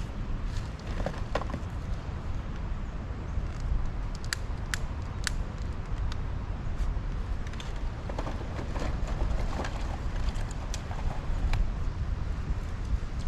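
Wind buffeting the microphone as a steady low rumble, with scattered sharp clicks and snaps, the loudest three in quick succession about four to five seconds in.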